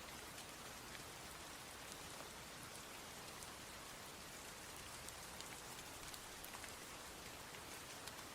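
Steady rain falling, a continuous hiss with many separate drops ticking over it.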